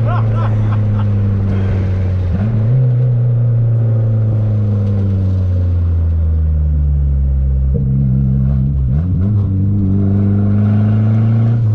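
Dodge Neon SRT-4's turbocharged four-cylinder engine running under way at steady revs. The revs sweep up quickly a couple of seconds in and twice more past the middle.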